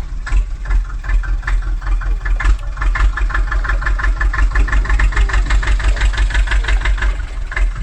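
Tractor engine sound running steadily with an even chugging beat of several pulses a second, the engine noise of a toy mini tractor.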